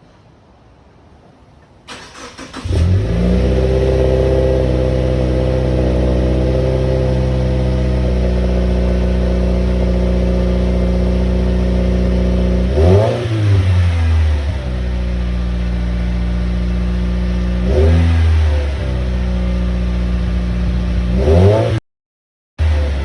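The 2015 Subaru WRX's turbocharged flat-four is started through a 3.5-inch Nameless muffler-delete exhaust and settles into a steady idle. It is blipped three times, each a quick rise and fall in pitch. Near the end the sound cuts out for a moment.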